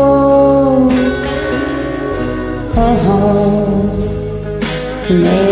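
Karaoke singing: a voice holds a long sung note for about the first second over a backing track, and the backing music carries on under fainter vocal lines.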